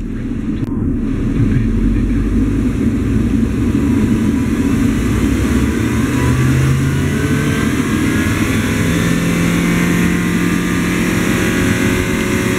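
Audi A3 8P's 2.0 FSI (BLR) four-cylinder petrol engine running on test, a steady engine note with a tone that creeps slightly higher in pitch over the second half.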